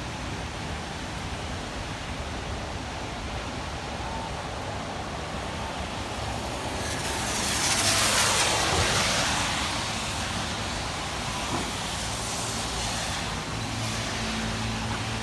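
Steady rain hiss, with a car passing on a wet road: its tyre swish swells and fades about halfway through. A low hum comes in near the end.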